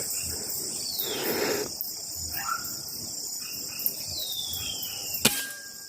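Forest insect chorus of cicadas or crickets, a steady high-pitched drone, with two falling whistled glides. One sharp crack comes near the end and is the loudest sound.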